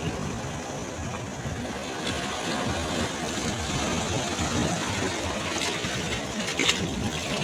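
Sea waves washing on a shore: a steady surf noise, with a couple of brief sharper splashes in the second half.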